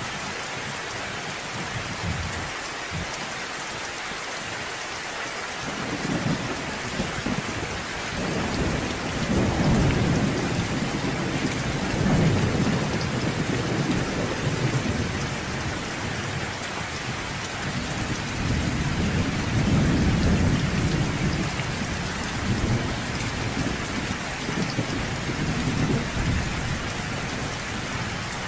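Steady heavy rain falling, with rolling thunder rumbling low in long swells, loudest about a third of the way in and again past the middle.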